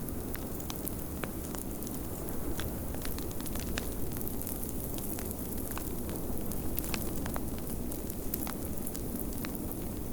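Wood fire crackling, with frequent small sharp pops and snaps scattered irregularly, over a steady low rush of blizzard wind.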